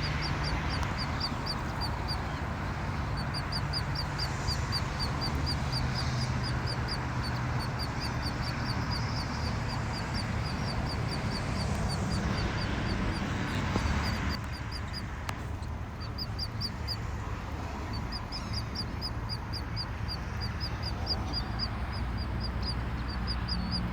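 Birds calling in rapid runs of short, high, repeated notes, several a second, with pauses between runs, over a steady background rush.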